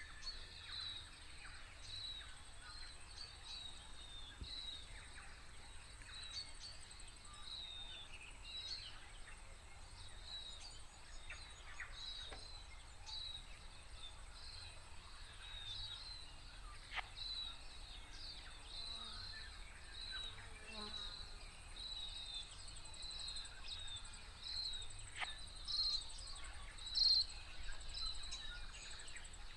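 A high, short chirp repeating steadily about one and a half times a second, with scattered fainter bird calls and one louder call about 27 seconds in.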